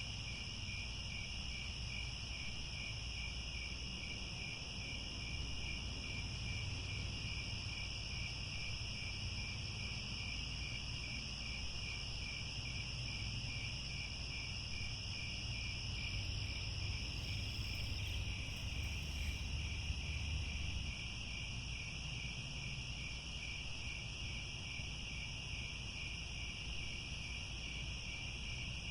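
A chorus of crickets: a continuous, high-pitched trilling with a fine, even pulse, steady throughout, over a faint low rumble.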